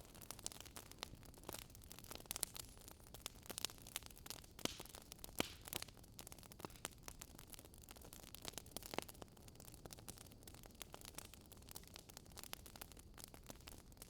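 Wood fire crackling: irregular sharp pops and snaps, several a second, over a soft hiss.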